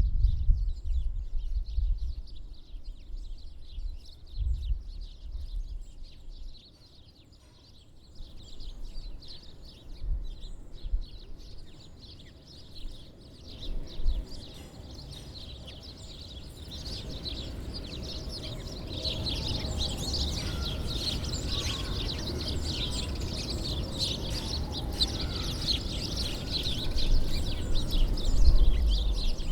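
Many small birds chirping at winter feeders, sparse at first and growing into a dense chatter about halfway through, over a low rumble.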